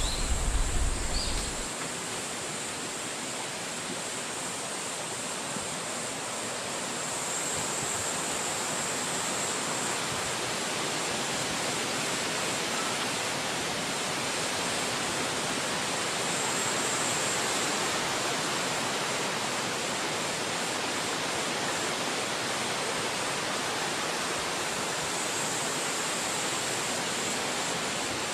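Wind rushing through forest trees as a steady, even hiss, with a high hiss that swells and eases a few times. A low rumble and a few short high chirps in the first second or two.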